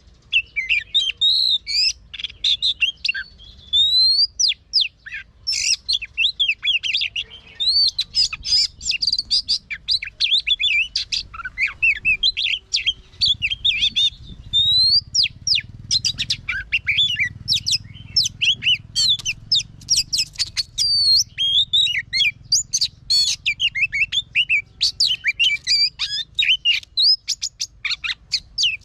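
Oriental magpie-robin singing: a fast, continuous run of varied whistles, chirps and trills with only brief pauses.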